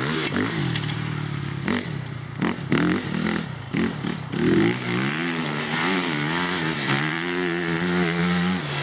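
Motocross bike engine being ridden, its pitch rising and falling with the throttle and gear changes. There are a few sharp knocks about two to four seconds in, then a steadier wavering note.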